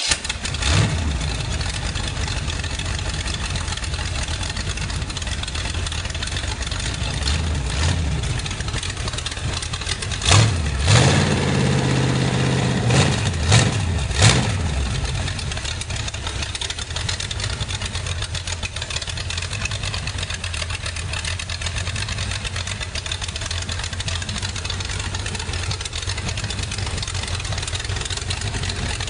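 Freshly built 383 stroker small-block V8 on an engine run stand, running through open headers: it has just fired up, runs steadily, is blipped sharply several times about ten to fifteen seconds in, then settles back to a steady idle.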